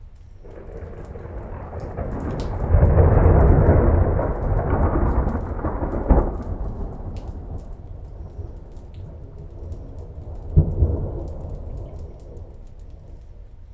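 Thunder rolling through a thunderstorm: a deep rumble builds about half a second in and is loudest a few seconds in. Two sharper claps come around six seconds and near eleven seconds, then it fades away over the light patter of rain.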